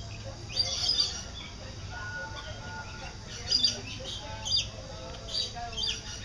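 Lorikeets giving a series of short, shrill screeching calls, loudest just under a second in and again about three and a half seconds in, as they come to cups of nectar.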